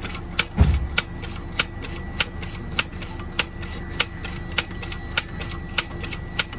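Steady mechanical ticking, a sharp louder tick about every 0.6 s with fainter ticks between, over a low steady hum, with a single low thump about half a second in.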